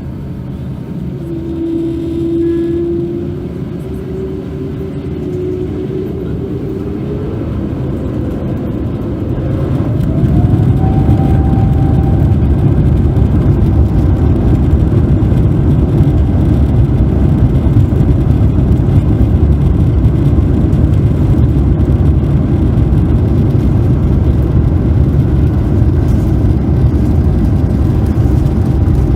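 Airbus A350-900's Rolls-Royce Trent XWB turbofan engines spooling up to takeoff thrust, heard inside the cabin: a whine rises steadily in pitch over the first ten seconds. At about ten seconds it gives way to a steady loud rumble of the takeoff roll.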